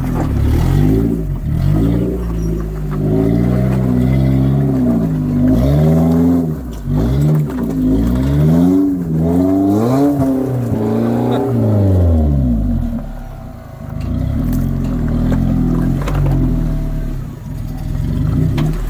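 Modified Suzuki 4WD's engine revving up and down again and again as it crawls a wet rock step. After a brief drop about two-thirds through, it settles to steadier, lower running.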